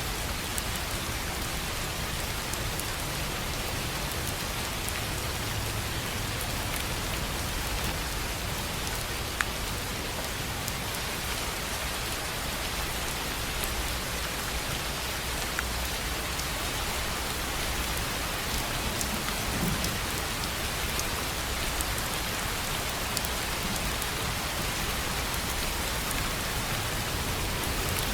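Steady rain falling on a tin roof: an even hiss with scattered drop ticks, and one sharper tick about nine seconds in.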